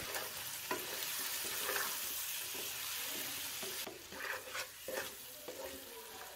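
Chicken pieces sizzling in oil in a non-stick karahi while a wooden spatula stirs them, with short scrapes of the spatula across the pan. The chicken is being stir-fried with salt and black pepper after changing colour. The sizzle quietens about four seconds in, leaving mostly the stirring scrapes.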